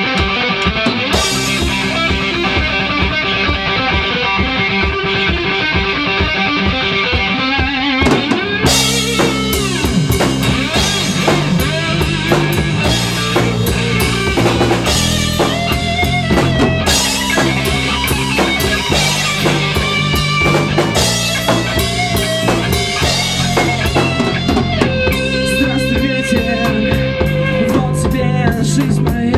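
Rock music, an instrumental passage: guitars over bass and drums, with the full drum kit and cymbals coming in about eight seconds in.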